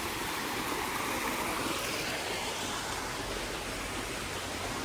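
Steady rushing outdoor noise, even throughout, with no clear tones or knocks.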